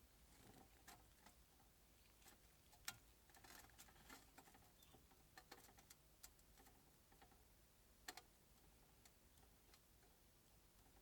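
Faint, irregular clicks and light taps over quiet room tone, with the sharpest clicks about three seconds in and again about eight seconds in.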